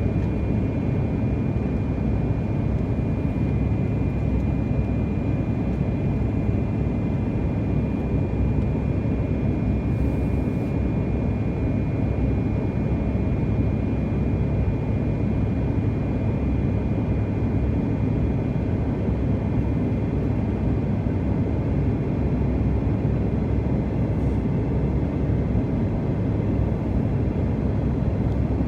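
Steady jet airliner cabin noise in flight: a constant low drone of engines and airflow, with a faint high whine held on one pitch.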